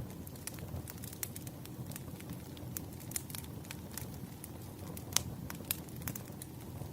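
Campfire burning, with a steady low rush of flames and scattered sharp crackles and pops of burning wood, two louder pops a little past the middle.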